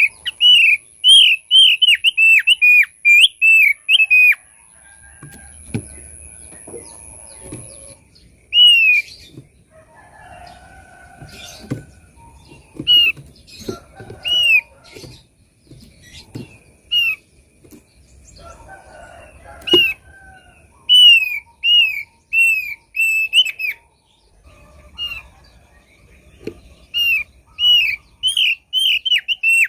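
Thick-billed heleia (opior paruh tebal) singing: short, arched, whistled notes given in quick runs of about two a second, with sparser single notes and softer chatter between the runs.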